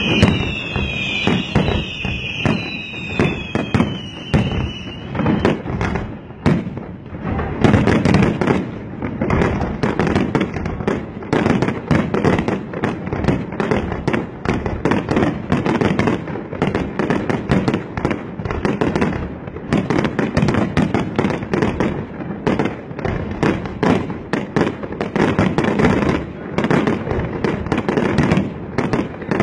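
Fireworks display: a dense, continuous barrage of bangs and crackling from aerial shells and rockets. Several falling whistles sound one after another during the first few seconds.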